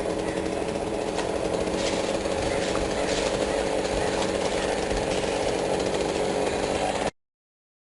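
A steady motor drone with a held hum, which stops abruptly about seven seconds in.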